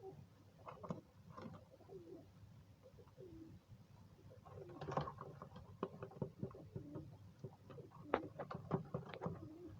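Pigeons cooing in low, rolling calls, mixed with quick clicks and taps that bunch together about halfway through and again near the end.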